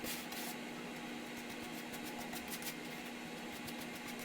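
A steady low hum, like a fan, runs under a few short, high scraping sounds near the start and about two and a half seconds in, typical of hair-dye mixture being stirred on a plate.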